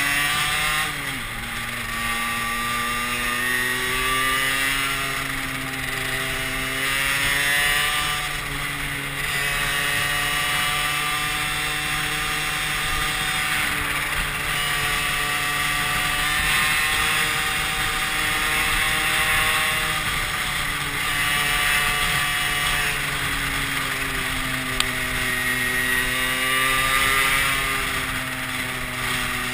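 Small motorcycle engine running under way, its note falling and rising as the throttle and gears change, over steady wind rush on the helmet-mounted microphone.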